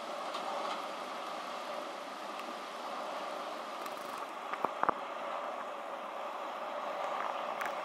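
Freight train of tank wagons rolling away along the track, a steady rolling noise with a few sharp clicks about halfway through.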